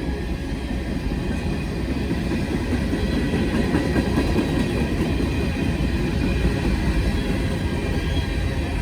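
Freight train rolling past, a steady loud rumble of wheels on rail that swells slightly.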